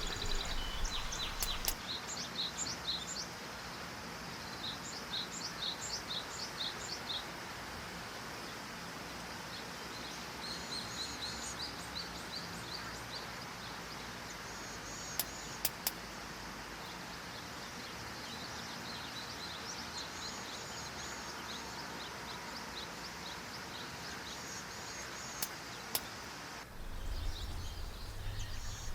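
Small birds chirping in short repeated series over a steady outdoor hiss. A few sharp clicks come about halfway and again later, and a low rumble comes in near the end.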